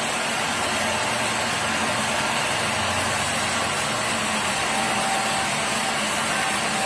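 Sawmill machinery running steadily, a dense, even mechanical noise.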